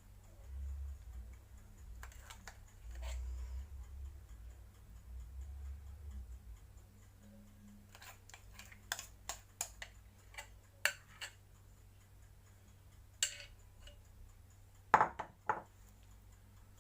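A spoon clicking and tapping against a dish as cream is scooped into the middle of a cake mould. Low handling bumps come first, then a scatter of sharp single taps in the second half, the loudest a pair of taps near the end.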